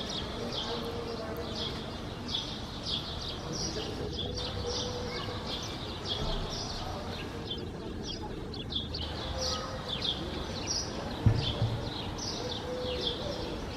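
Small birds chirping in quick, repeated short calls over a steady background hum, with a single low thump about eleven seconds in.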